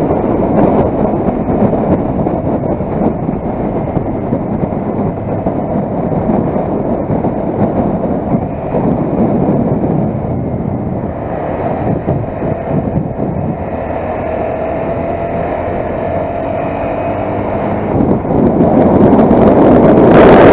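Motorcycle riding at road speed: steady engine and road noise with wind rushing over the microphone, getting louder near the end.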